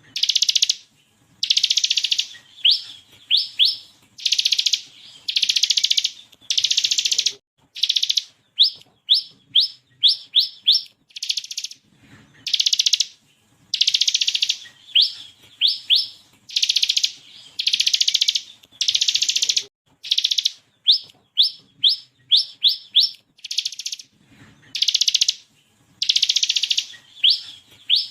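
Ciblek kristal (bar-winged prinia) singing: dense, fast buzzing rattles of about half a second to a second, the 'ngebren' burst, alternating with runs of quick, sharply rising whistled notes, the 'tembakan' shots, repeated with short pauses.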